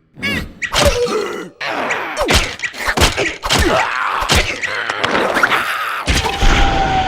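Cartoon slapstick sound effects: a character's wordless groans and grunts mixed with a rapid series of thumps and whacks over a noisy rush.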